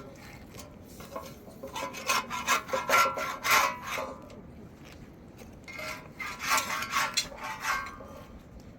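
Dough being kneaded and scraped by hand in a basin: two spells of rubbing, rasping strokes with a faint squeak of friction against the basin.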